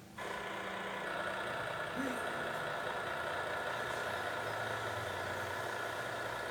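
A large engine running steadily, coming in abruptly just after the start.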